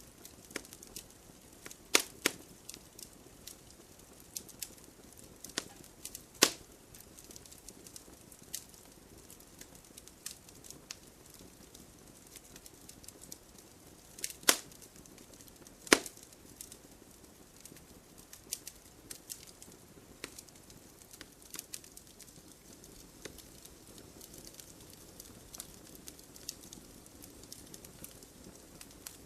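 Wood campfire crackling, with irregular sharp pops and snaps over a low steady hiss; the loudest pops come about two, six, fourteen and sixteen seconds in.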